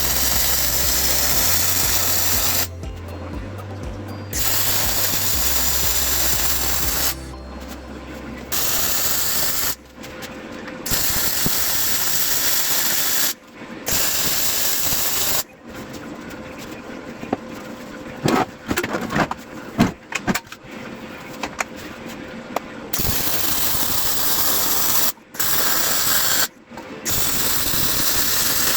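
Metal fabrication noise in short edited clips: a steady crackling hiss that stops and starts abruptly several times, with a burst of sharp knocks around the middle. Low background music notes are heard in the first few seconds.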